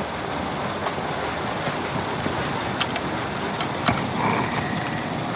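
A car engine idling steadily, with a few light clicks a few seconds in.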